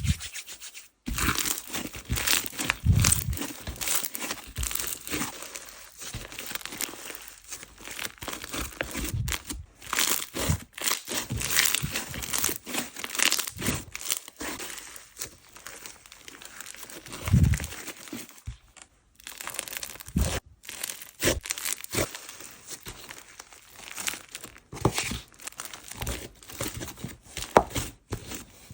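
Slime being squeezed, stretched and pressed by hand: dense, irregular crackling and popping, with a few dull thuds.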